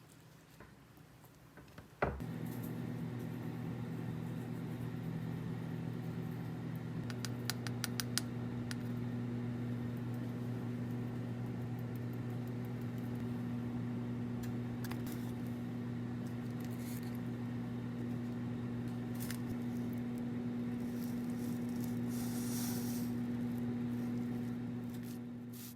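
A steady electrical hum from an appliance, starting with a click about two seconds in, with a short run of quick ticks partway through.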